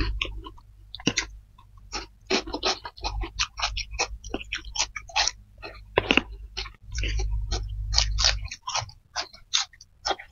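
Close-miked mouth sounds of people chewing spicy fried flat rice noodles (kway teow) with fried egg: many quick, irregular wet smacks and clicks.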